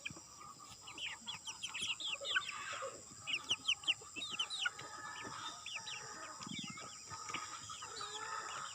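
Chicks peeping, many short high cheeps that slide downward, coming in quick clusters, over a steady high-pitched drone.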